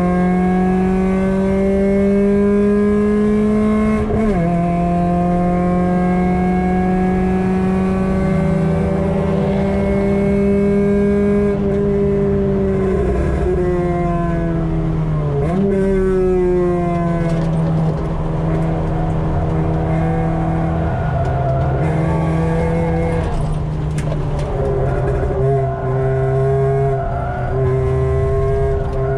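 Ford 1.7 Puma four-cylinder engine with a decat exhaust and 4-2-1 manifold, heard from inside the Mk5 Fiesta's cabin, pulling hard on track. The revs climb, drop sharply at an upshift about four seconds in, and climb again. About halfway through they fall away with a short sharp blip, then run at lower revs with small steps.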